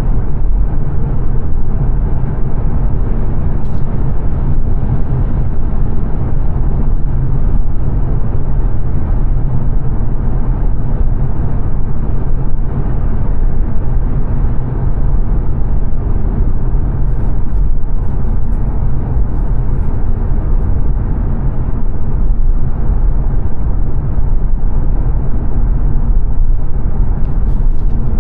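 Steady low rumble of road and tyre noise inside the cabin of a 2022 Mazda 3 saloon cruising at motorway speed.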